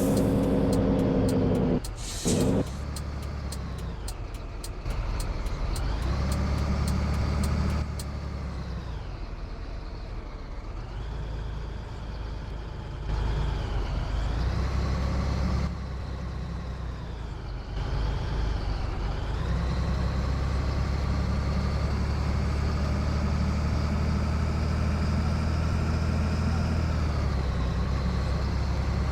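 Scania 113 truck's six-cylinder diesel engine running under way, its pitch climbing and dropping several times as it works through the gears. There is one short air hiss about two seconds in.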